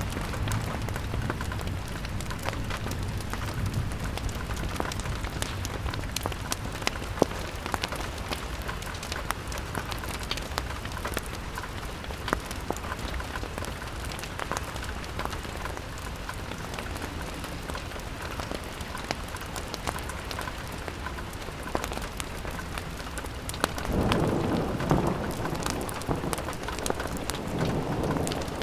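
Rain pattering steadily on a window pane, mixed with the sharp pops and crackles of a wood fire. A low rumbling swell, a gust of wind or a roll of thunder, rises near the end and fades.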